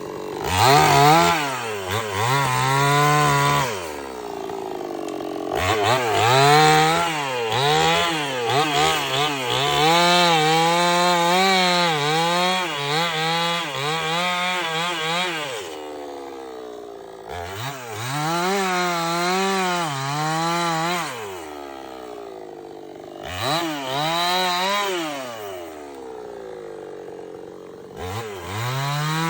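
Stihl 070 two-stroke chainsaw cutting wood: the engine revs up to full throttle with its pitch wavering under load, then drops back to idle between runs. There is a long cut of about ten seconds, then shorter bursts, with a final rev-up near the end.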